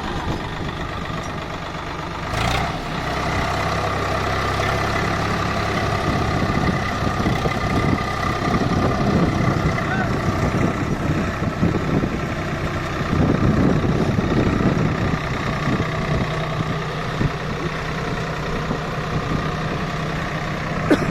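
Swaraj 744 tractor's diesel engine running steadily, with a single knock about two seconds in.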